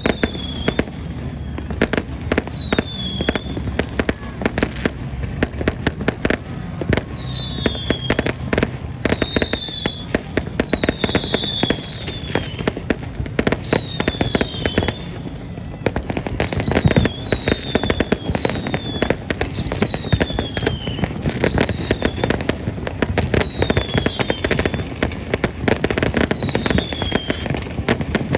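New Year fireworks display: a dense, continuous run of bangs, pops and crackles, with short whistles falling in pitch every second or two.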